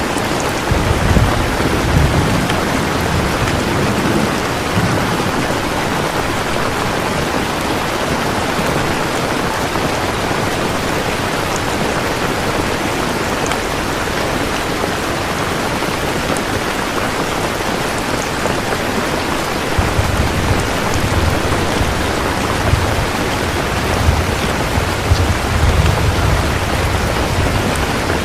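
Steady, heavy rain, an even hiss of falling drops. A low rumbling sits under it in the first few seconds and again from about two-thirds of the way in.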